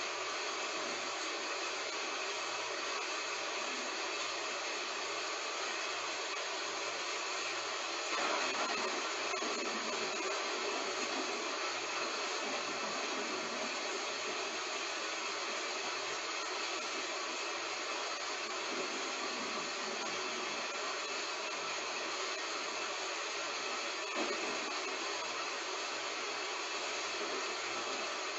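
Heavy rain falling as a steady, even hiss, swelling briefly about eight seconds in.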